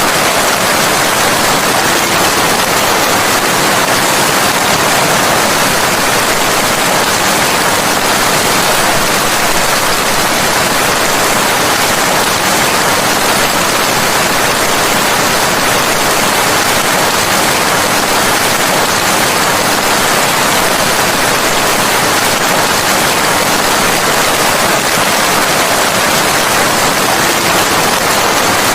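Steady, heavy rain: a dense, even hiss that never lets up.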